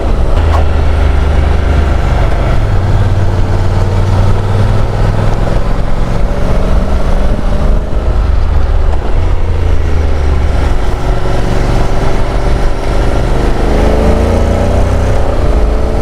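Honda NC750 DCT motorcycle's parallel-twin engine running under way, its pitch dipping and then rising toward the end with the throttle, under steady wind noise on the helmet microphone.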